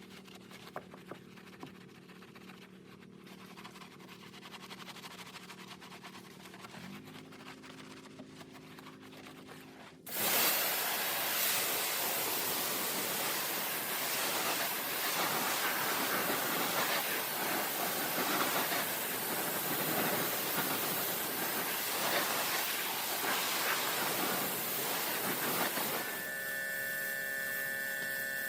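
Pressure washer: a low steady hum, then about ten seconds in a loud, even hiss of the water jet starts suddenly and runs about sixteen seconds before stopping, leaving a steady whine.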